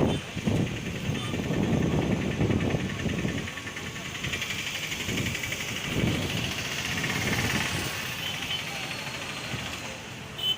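Vehicle travelling along a road: engine and road noise that rises and falls, with a higher buzzing from about four seconds in that lasts several seconds.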